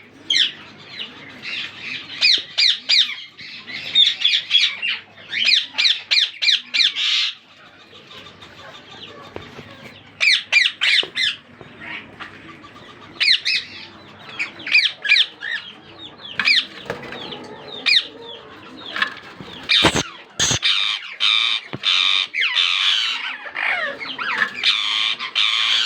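Indian ringneck parakeets squawking in bouts of rapid, harsh, repeated high calls with short pauses between, becoming near-continuous toward the end. Two sharp knocks about twenty seconds in.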